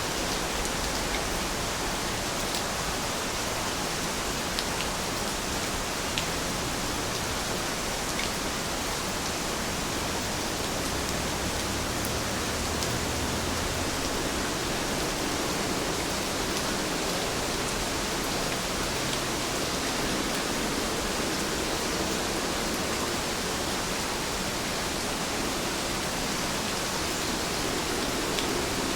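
Steady rain falling, an even hiss with a few scattered faint drop clicks.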